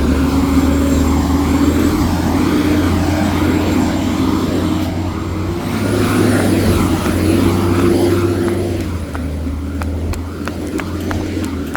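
Garbage truck engine revved hard to drive the hydraulic packer while it compacts trash, with a thin high whine over the engine note. The engine eases about nine seconds in, and a run of short ticks follows near the end.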